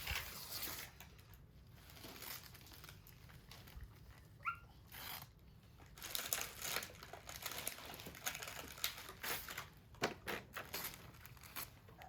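Wrapping paper crumpling and tearing in irregular rustles, with a brief high squeak about four and a half seconds in.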